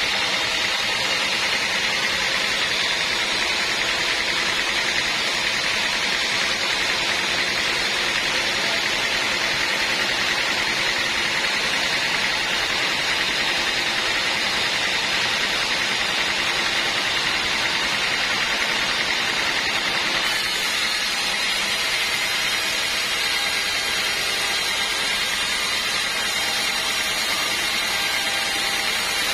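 Steady, continuous noise of a sawmill band saw running, with a strong high hiss and faint steady whine.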